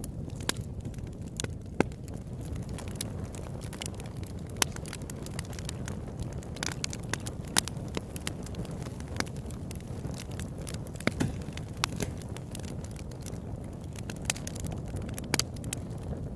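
Campfire burning with a steady low rumble of flames and irregular sharp crackles and pops of burning wood, a few louder pops standing out.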